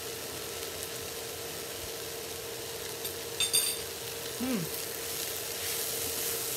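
Cauliflower fried rice sizzling steadily in a hot nonstick frying pan. About three and a half seconds in, a metal utensil gives one sharp, ringing clink, the loudest sound.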